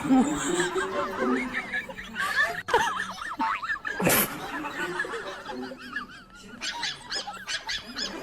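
Laughter and snickering, with wavering, warbling voices. There is a sharp click a little over two seconds in and a brief hissing burst about four seconds in.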